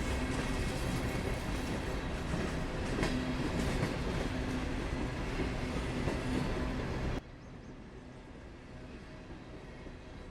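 CSX freight train with its diesel locomotives running, a steady low engine drone under rolling train noise. About seven seconds in, the sound cuts off abruptly to a much quieter background.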